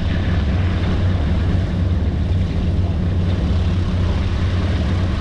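The B-17 Flying Fortress's four Wright R-1820 Cyclone radial engines running steadily, an even, unbroken propeller drone.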